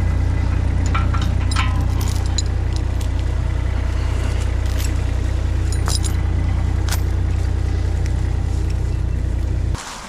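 Mini skid steer engine running steadily, with scattered metallic clinks and rattles from the machine working. The engine sound stops abruptly near the end.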